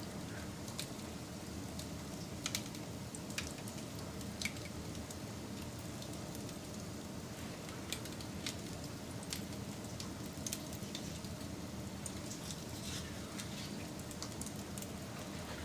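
Wood fire burning, with sharp crackles and pops at irregular intervals over a steady low rush of the flames.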